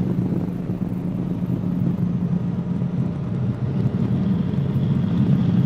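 Cabri G2 helicopter in flight: the steady low drone of its piston engine and rotors, heard inside the cabin through the headset intercom microphone.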